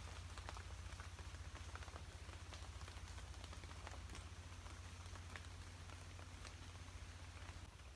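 Light rain falling, with many irregular drops tapping on a plastic tarp shelter over a steady low rumble.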